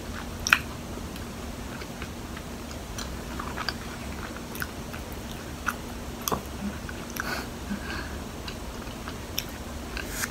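Close-up chewing and mouth sounds of someone eating peanut-filled mochi: irregular soft clicks and smacks, with a sharper click about half a second in.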